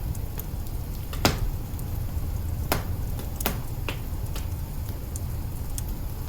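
Wood fire burning in an open hearth: a steady low roar with sharp crackles and pops, the loudest about a second in and others around three and four seconds in, between fainter ticks.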